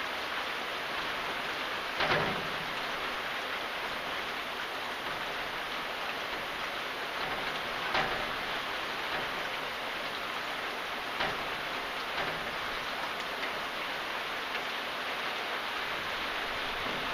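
Steady rain falling, with a handful of louder single drops striking now and then.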